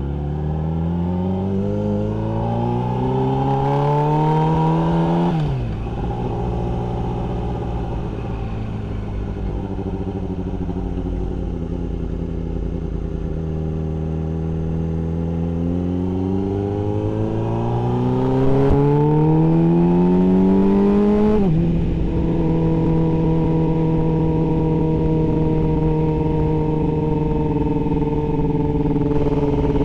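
Yamaha R6 inline-four motorcycle engine accelerating: its pitch climbs steadily for about five seconds, then drops abruptly as the throttle closes. It pulls up again for about seven seconds, drops abruptly again, then runs at a steady pitch at cruise.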